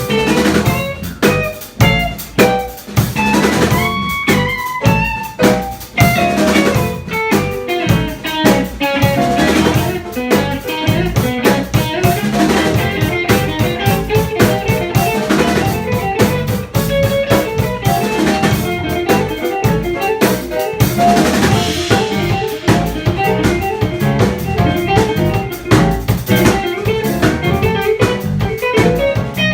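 Live jazz band playing an instrumental tune: guitar, piano, bass and drum kit, with rimshots on the snare.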